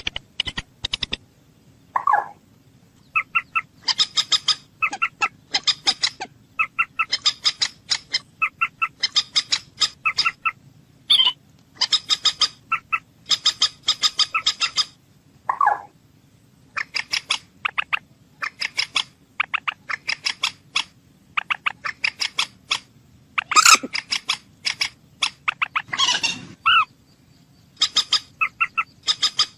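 Bird calling: repeated bursts, each about a second long, of rapid short clicking notes, with a few single lower, falling calls in between.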